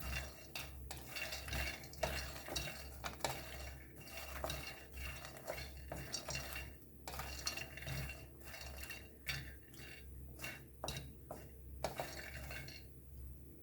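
A utensil stirring fox nuts and raisins toasting in ghee in a pan, with irregular scrapes and knocks against the pan. The stirring stops about a second before the end.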